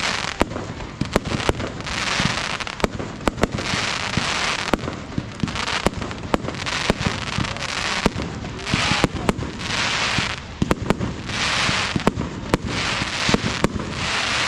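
Fireworks display: a rapid series of sharp bangs from bursting shells, over repeated swells of hiss lasting about a second each.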